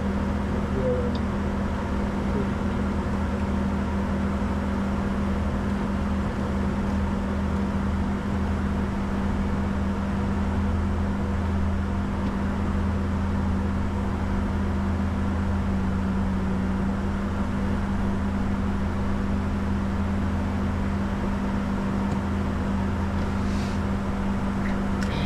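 Steady in-flight cockpit noise of a Bombardier Challenger 605 business jet: an even rush of air with a constant low hum underneath.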